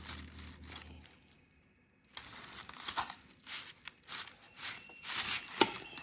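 Background music fades out about a second in, then irregular crinkling and rustling from something being handled up close.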